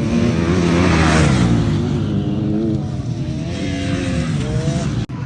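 Motocross bike engines running hard on the track, their pitch rising and falling with the throttle. It is loudest about a second in, with a rising rev near the end.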